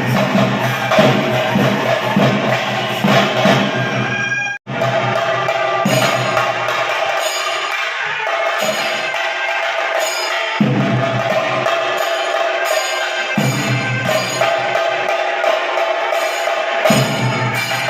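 Temple drumming for a Muthappan vellattam: chenda drums beaten in a fast, continuous rhythm with cymbals, cutting out for an instant about four and a half seconds in.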